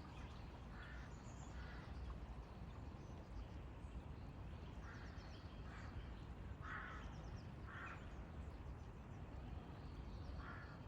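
Faint, distant birds calling: short calls that come every second or two in small clusters, over a steady low background rumble.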